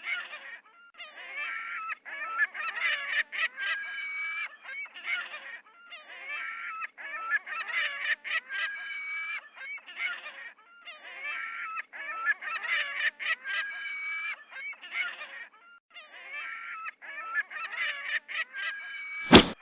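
A flock of gulls calling, many harsh, overlapping cries one after another with only brief pauses. A single sharp knock sounds just before the end.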